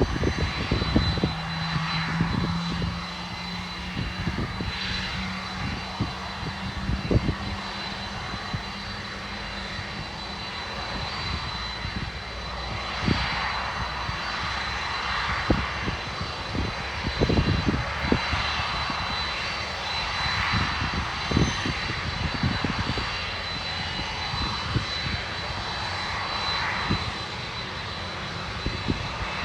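Jet engines of a Boeing 747-400F freighter running, a steady high whine over a continuous rush, with irregular low thumps and a low hum over the first several seconds.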